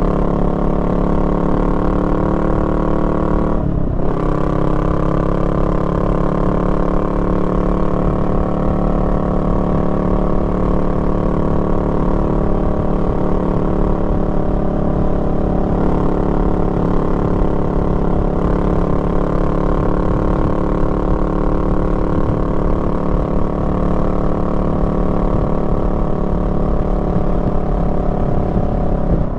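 Honda Rebel 500's parallel-twin engine running steadily under way. About four seconds in, the engine note breaks off briefly and picks up again at a new pitch.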